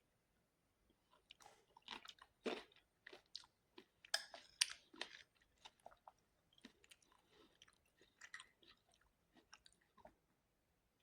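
A person chewing and biting food in many short, irregular clicks. The clicks are thickest from about a second and a half to five seconds in and thin out after that.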